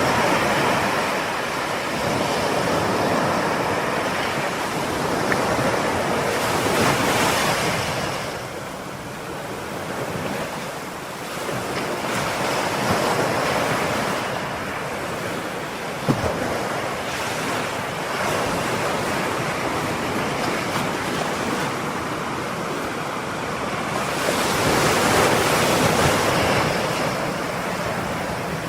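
Ocean waves breaking and washing on a shore, swelling and ebbing every several seconds, with a brief sharp click about halfway through.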